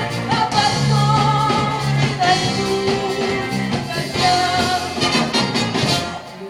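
Live band music, a passage of the song with held melody notes over a bass line; the music drops away briefly near the end.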